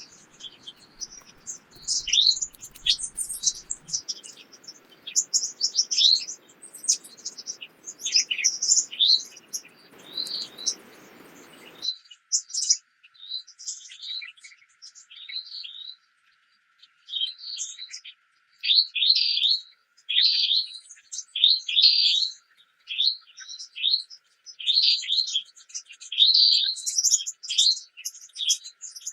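Songbirds chirping and singing: many quick, high chirps and short trills, one after another, with more than one bird calling.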